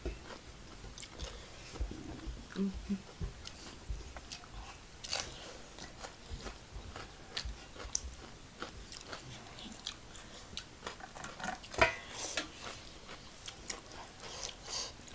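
Close-miked chewing and biting of crispy fried chicken, with scattered crunches and mouth clicks and one louder crack late on.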